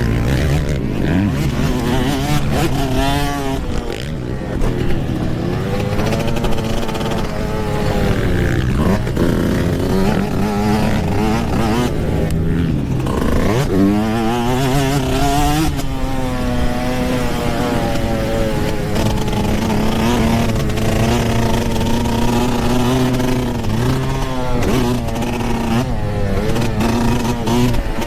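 Yamaha YZ125 two-stroke motocross bike engine being ridden hard, revving up and dropping back over and over as the rider works the throttle and gears. The pitch holds steadier for several seconds past the middle before the rev-and-drop pattern returns.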